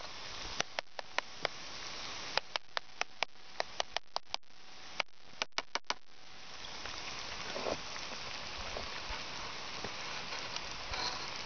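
About a dozen sharp clicks over a soft hiss, then a steady sizzle with small pops from food frying in a pan over a wood fire.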